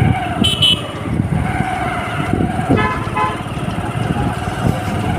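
Motorcycle riding along a road, with engine and road noise, and a vehicle horn beeping briefly twice, about half a second in and again about three seconds in.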